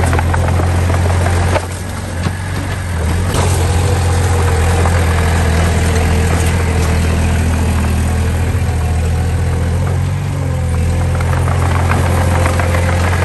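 Diesel engine of a piece of earth-moving machinery running steadily with a deep hum. It drops briefly about one and a half seconds in, then comes back up, with a few sharp knocks along the way.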